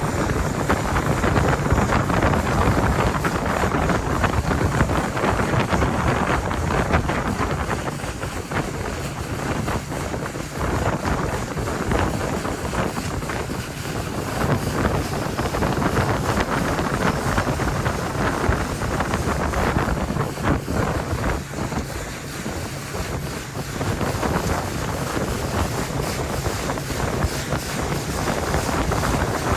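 Boat motor running steadily while the boat travels at speed across open water, with heavy wind buffeting the microphone.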